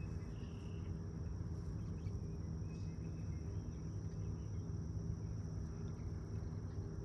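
Steady high-pitched insect trill, typical of crickets, over a low steady hum. A couple of faint short calls come near the start and about three seconds in.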